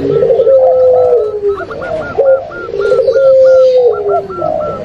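Several doves cooing at once, a mix of zebra dove, spotted dove and puter pelung (a Barbary dove breed): drawn-out low coos overlap a quick run of short, higher notes at about four a second.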